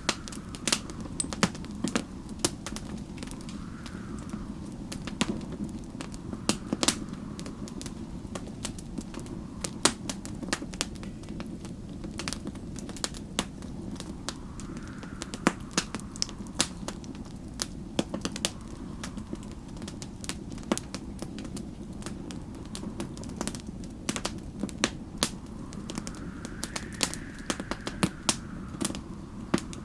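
Wood fire crackling with irregular sharp pops over a steady low rumble, while a faint wind howls, rising and falling every few seconds like a snowstorm outside.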